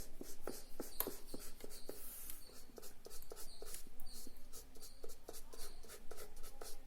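Sketch pen scratching on paper in short, quick strokes, several a second.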